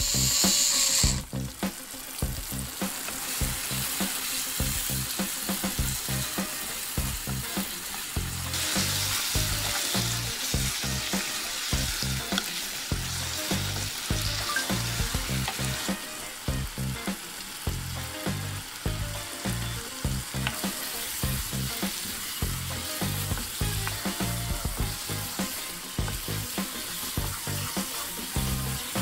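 An electric mixer grinder runs for about a second and cuts off. Then a potato and vegetable curry masala sizzles and fries in a pan while it is stirred with a wooden spatula, over a steady low beat of background music.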